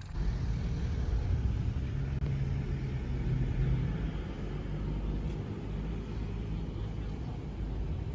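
Steady low rumble of a car on the road, engine and tyre noise, starting suddenly.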